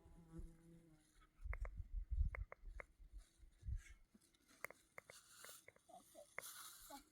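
Faint scattered small clicks and a few soft low thumps, with the last held note of a song fading out in the first second.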